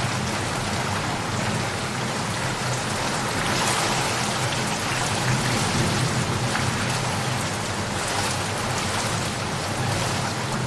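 Steady heavy rain falling on surfaces, a dense even hiss of drops with a low rumble underneath.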